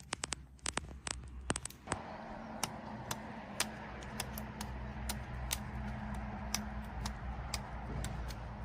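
Campfire crackling: scattered sharp pops and ticks, about one or two a second, over a soft steady hiss.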